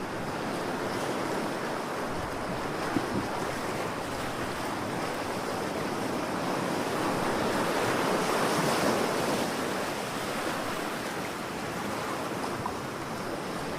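Ocean waves washing on the shore, a steady surf rush that swells to a louder break about halfway through and then eases back.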